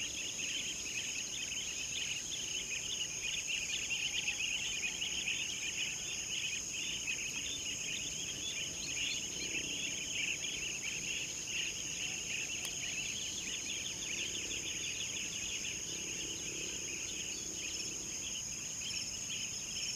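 Many small birds chirping over one another above a steady high-pitched insect drone, unchanging throughout.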